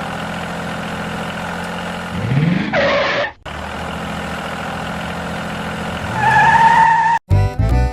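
Engine running steadily, revving up with a rising pitch about two seconds in, then cutting off abruptly and resuming, with a louder stretch near the end. Music starts suddenly at the very end.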